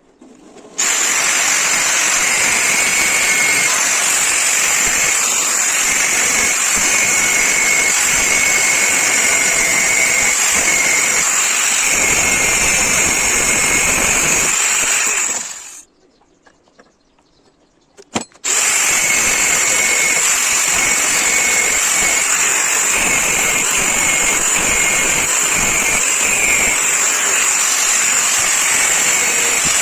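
Electric power tool running at full speed with a steady high-pitched whine, in two long runs: it stops about fifteen seconds in and starts again about three seconds later.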